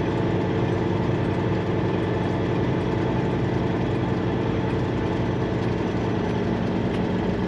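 Semi truck's diesel engine running steadily at low speed.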